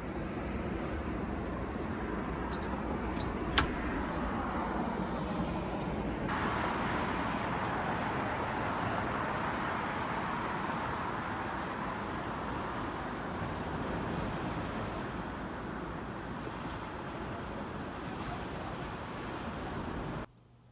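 Steady rumbling noise of a vehicle on the road, with a few short clicks in the first few seconds. The noise changes character abruptly about six seconds in and cuts off suddenly just before the end.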